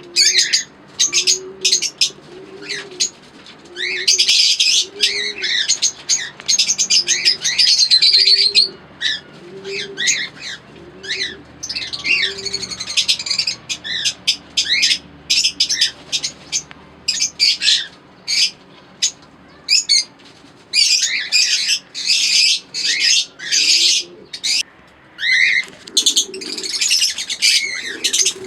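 Aviary of lovebirds and cockatiels chirping in dense short bursts. Underneath, a pigeon coos about once a second through the first half.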